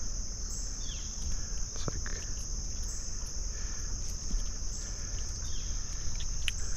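Steady, high-pitched insect chorus, like crickets or cicadas, running on without a break over a low rumble, with a few faint clicks.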